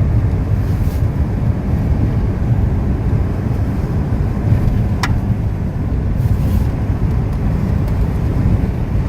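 Steady low rumble of a car driving, heard from inside the cabin, with one short click about five seconds in.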